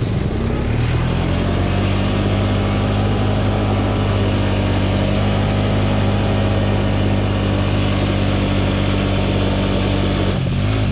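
Pit bike's small single-cylinder engine pulling away, rising in pitch over the first second, then running steadily at high revs; the revs dip briefly and pick up again near the end.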